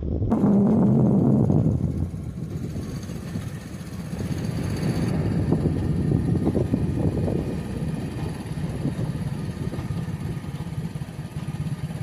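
A motor vehicle's engine running steadily, with a low rumble and road noise; the sound changes abruptly twice, as at cuts between clips.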